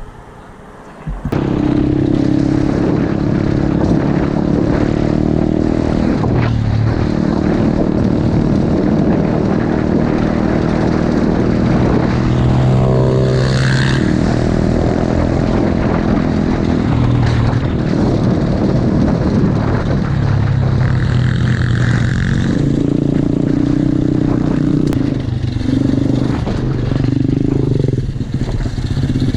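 Single-cylinder 125cc pit bike engine running hard while riding, revs rising and falling with the throttle. The engine comes in abruptly about a second in.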